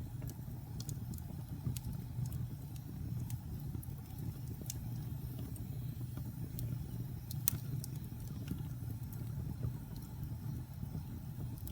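Wood fire in a fireplace crackling: irregular sharp pops and snaps over a steady low rumble, with one louder pop a little past the middle.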